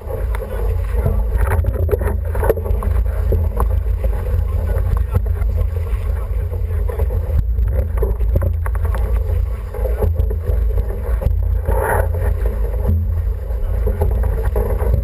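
Steady wind buffeting on the microphone over water rushing and splashing past an International 14 sailing dinghy under way, with scattered knocks and slaps.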